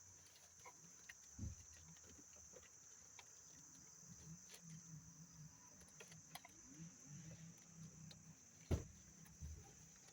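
Near silence, with a faint steady high hiss, scattered small clicks and one sharper knock about nine seconds in.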